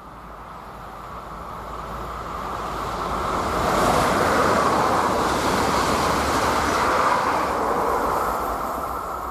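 A train passing at speed: the rumble of wheels on rail builds up, is loudest about four to seven seconds in, then fades as the train moves away.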